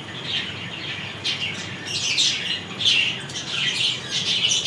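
Birds chirping over and over: short, high calls that fall in pitch, coming two or three a second.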